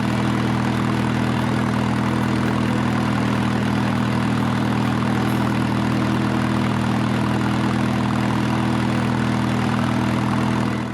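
1937 Silver King R44 tractor's engine running steadily at a constant speed.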